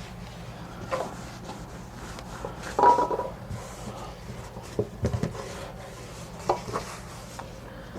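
Hand-work noises while woodwork is being treated: rubbing and scattered knocks on wood, with a hard clatter and a brief ringing clink about three seconds in and a couple of dull thuds near five seconds, over a steady low hum.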